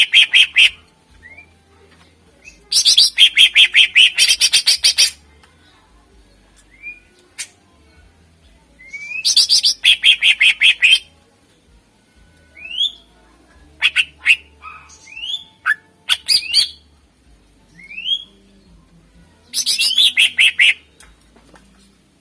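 Cucak ijo (green leafbird) singing: four bursts of rapid, high repeated notes, each lasting a second or two, with short single rising whistles scattered between them.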